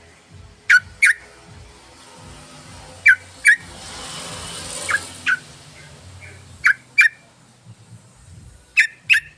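Yellow-vented bulbul (trucukan) calls played as a lure recording: short, sharp notes in pairs, one pair about every two seconds. A soft hiss swells and fades near the middle.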